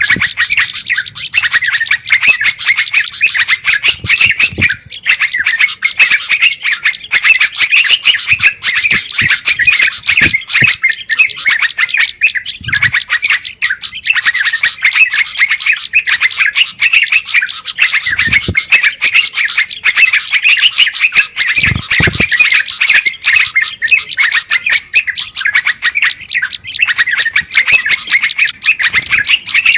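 Bird-lure recording of many small songbirds chattering and calling agitatedly in a dense, unbroken chorus, the 'noisy birds' sound played to draw wild bulbuls and tailorbirds. A few low thuds sound under it.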